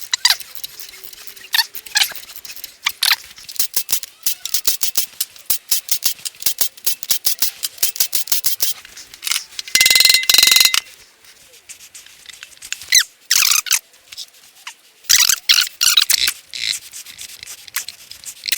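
Ratchet wrench clicking in quick strokes as the flathead Ford V8's crankshaft is turned over by hand, with a louder rasping, squeaky spell about ten seconds in.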